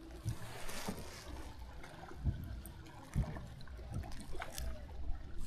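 Water trickling and splashing lightly around a kayak, with a few scattered light knocks.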